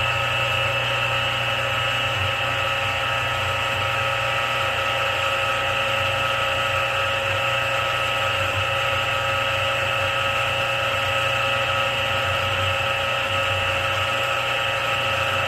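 Milling machine spindle running at steady speed, driving a cutting-oiled pilot drill bit through stacked metal plates: a steady whine of several tones over a low hum.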